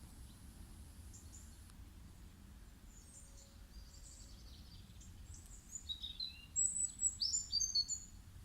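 Small birds chirping in quick, high-pitched notes, faint at first and busiest for a couple of seconds near the end, over a steady low background rumble.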